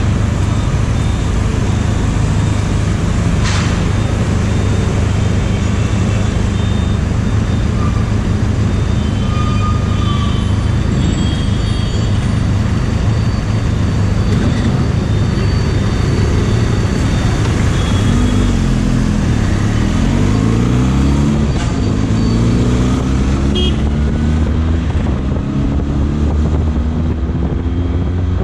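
Benelli motorcycle being ridden, with steady wind and road noise on the rider's microphone. In the second half the engine note climbs and drops several times as the bike accelerates up through the gears.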